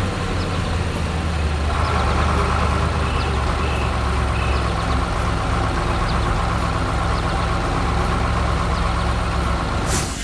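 Heavy machinery engine running steadily at a low rumble, a higher whine joining about two seconds in; it cuts off sharply near the end.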